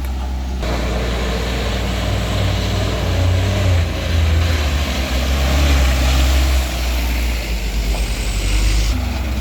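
Heavy vehicle's diesel engine running close by, a strong low drone, with a broad rushing noise that comes in about half a second in and stops near the end.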